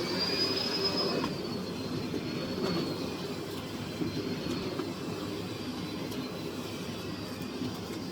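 Miele CX1 Blizzard bagless vacuum cleaner running steadily. A high whistle rises right at the start, holds for about a second, then slowly falls and fades away.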